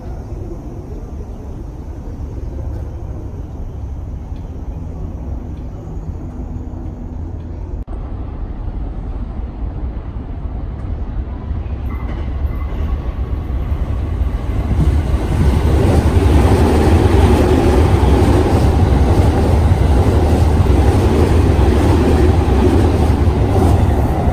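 Train running through a railway station, a steady low rumble that grows louder from about halfway through and is loudest over the last third.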